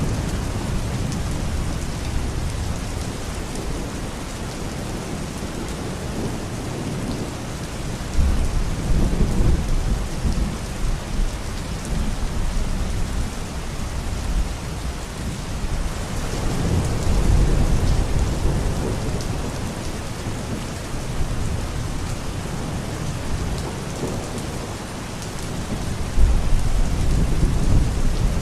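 Steady heavy rain with low rolling thunder that swells and fades several times: about a third of the way in, around the middle, and again near the end.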